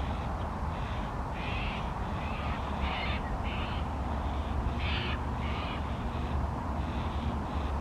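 Yellow-tailed black cockatoos giving short, repeated begging calls, a call every half second to a second, the constant food-begging of juveniles to the adults. A steady low rumble lies underneath.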